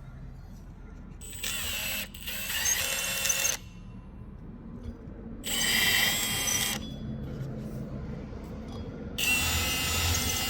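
A power drill with a chamfer bit run in three short bursts, cutting chamfers on the drilled bolt holes of a steel plate, with a high squealing cut in each burst.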